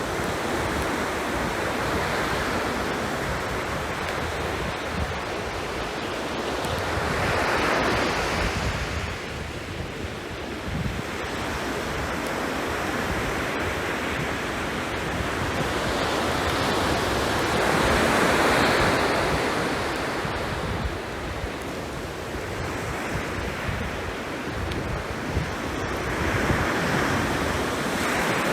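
Sea waves breaking and washing up the shore, swelling in three slow surges about ten seconds apart, with wind rumbling on the microphone.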